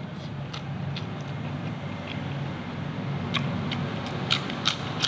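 Close-up eating sounds: a man chewing, with a few short crisp crunches in the second half as he bites into a raw green vegetable. A steady low hum runs underneath.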